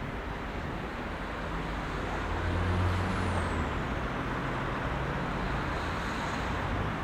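Heavy rush-hour city traffic: a steady wash of engines and tyres. About halfway through, a heavier vehicle's low engine rumble swells, and a faint high squeal rises and then falls.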